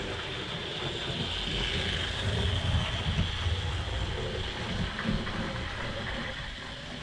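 Model train running along the track, pulling a home-made track cleaning car: steady motor hum and rolling wheel noise.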